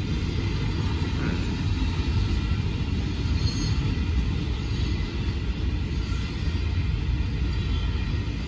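Steady low rumble of a freight train rolling through a grade crossing, heard muffled from inside a car stopped in line at the crossing.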